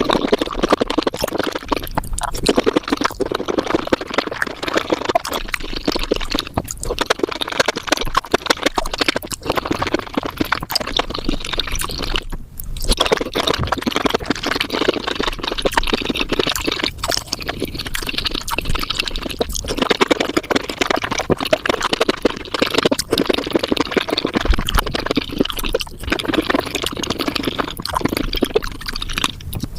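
Close-miked wet chewing and slurping of spicy mushrooms, sped up so the sticky smacks and squelches run together into a dense, continuous crackle, with a couple of brief breaks.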